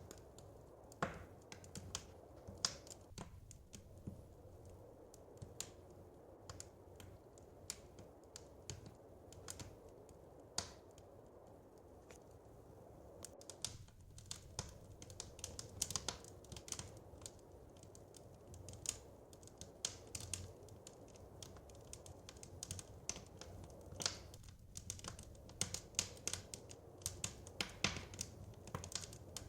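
Wood fire in a fireplace crackling, with irregular sharp pops and snaps, more frequent in the second half, over a low steady rumble.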